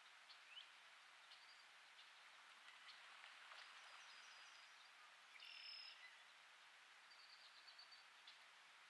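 Near silence: faint outdoor ambience with a steady hiss and scattered faint bird chirps. A slightly louder half-second bird call comes about five and a half seconds in.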